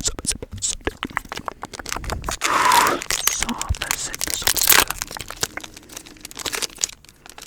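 Pokemon trading cards and their foil booster-pack wrapper handled close to the microphone: a run of quick clicks and crackling crinkles, loudest about two and a half seconds in and again near the middle.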